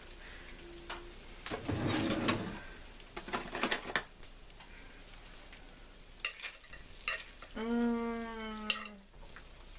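Metal utensil scraping and clinking against a baking pan of cheesy fries, with a few sharp clicks, then a drawn-out "mmm" hum near the end.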